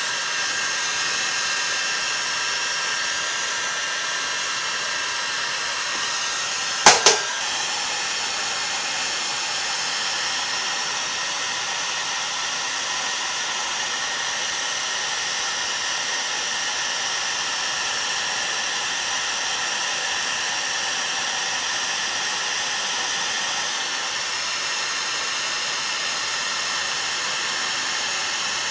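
Heat gun blowing steadily, heating a chainsaw crankcase half and its main bearing so the crankshaft can be pressed in. A sharp double click comes about seven seconds in.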